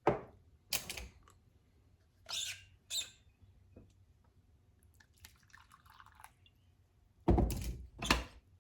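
A handful of short rustles and knocks at irregular intervals, the two loudest close together near the end.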